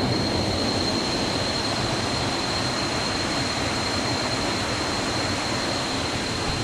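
Waterfall and river water rushing in a steady roar, with a thin, steady high-pitched tone over it.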